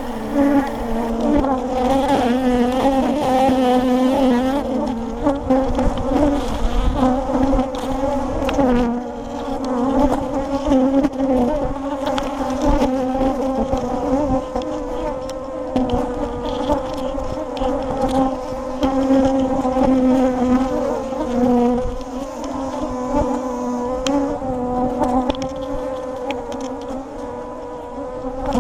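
A mass of honey bees buzzing loudly around an open hive: a dense, steady droning hum with wavering higher tones above it. The colony is agitated and defensive, which the beekeeper takes for Africanized bees.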